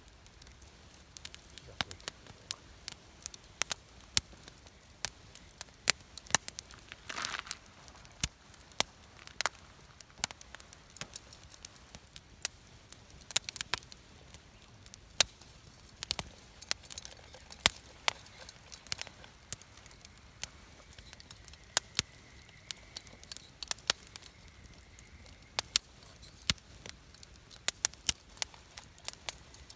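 Wood campfire crackling, with many sharp, irregular pops and snaps over a low hiss.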